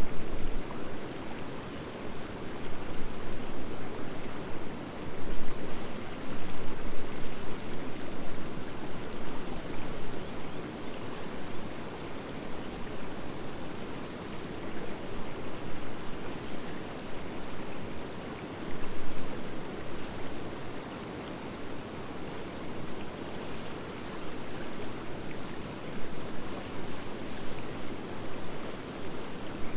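Wood fire of driftwood and dry hardwood burning in a Coleman Fire Disc fire pit: a steady rushing noise that swells and eases, with faint small crackles scattered through it.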